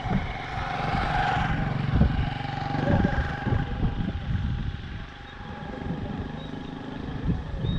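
Tractor engine running, its level swelling and easing.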